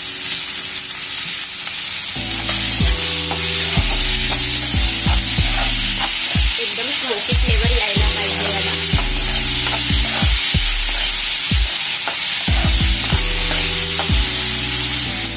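Chopped onion, capsicum, carrot and tomato sizzling in hot oil on a high flame as they are stir-fried, with a metal slotted spoon scraping and knocking against the metal pot. The sizzle grows louder about two seconds in.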